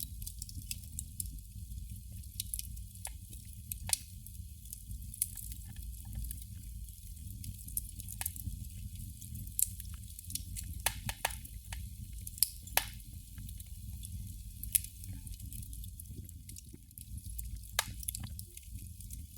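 Candle flame crackling: irregular sharp little clicks and pops, several a second, some louder than others, over a low steady rumble.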